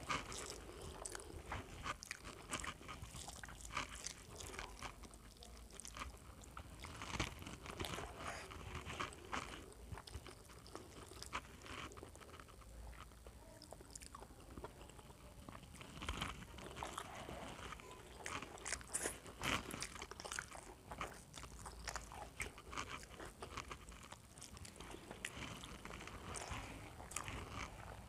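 Close-up, irregular chewing and wet lip-smacking of a mouthful of rice and fried egg eaten by hand, with the soft squish of fingers mixing rice on a steel plate.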